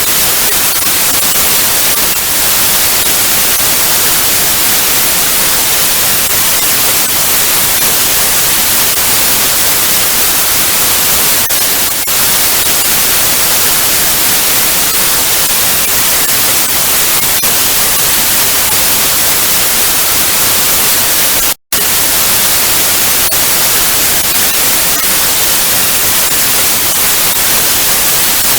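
Television static: a loud, steady hiss of white noise, brighter in the highs, with a brief cut to silence about three quarters of the way through.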